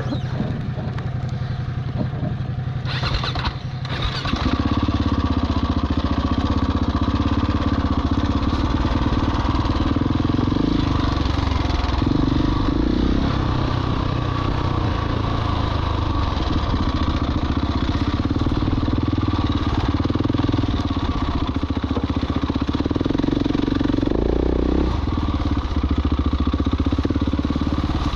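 Husqvarna 701 Enduro's single-cylinder engine running under way, pulling harder from about four seconds in, with brief rises in revs twice later on. A short rush of noise comes just before the engine picks up.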